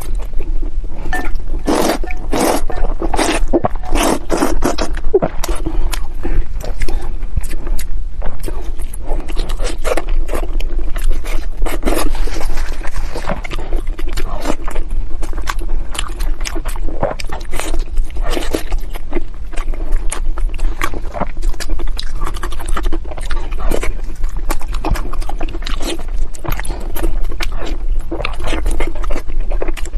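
Close-miked chewing and wet mouth sounds of someone eating pork belly: a dense, uneven run of smacks and soft clicks, with a steady low hum underneath.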